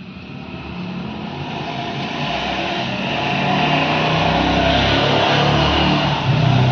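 A motor vehicle's engine, growing steadily louder over the first four seconds and then running on at a steady level.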